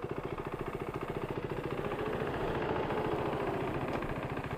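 Motorcycle engine idling with a rapid, even pulsing beat, still running with the bike down after a crash and petrol leaking from the tank.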